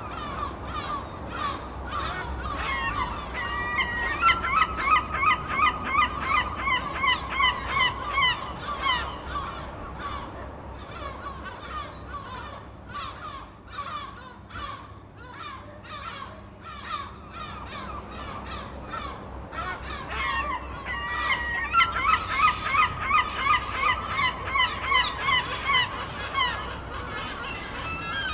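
Seagulls squawking: many overlapping short calls, with two long runs of rapid repeated calls, a few seconds in and again past the middle.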